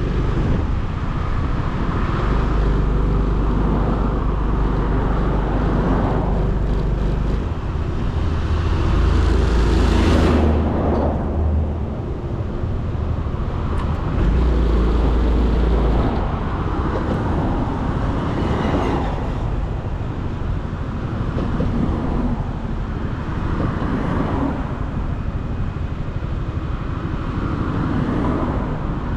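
Motorcycle riding in road traffic, heard from on board: the engine running with wind and road noise. Louder swells of other traffic pass about ten seconds in and again a few seconds before the end.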